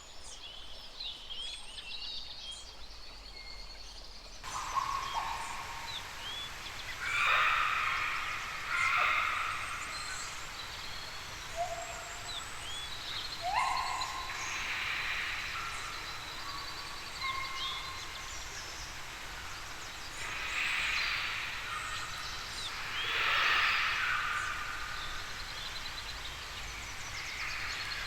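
Several wild birds calling and chirping over a steady outdoor background hiss, with short rising and falling whistles and a few louder calls throughout. About four seconds in, the background abruptly gets fuller, as at a cut to another recording.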